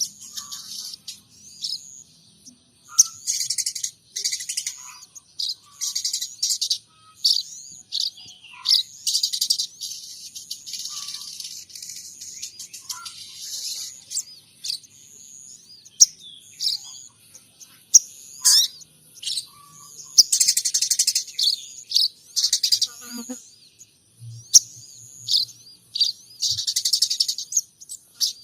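Sogon trotol songbird singing a long run of rapid high chirps, twitters and trills in clusters with short pauses, a song said to carry imitated phrases of munias and tree sparrows.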